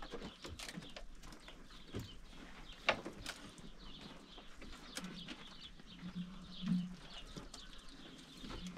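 Faint birds chirping, with many short high calls scattered throughout and a few low drawn-out notes near the middle.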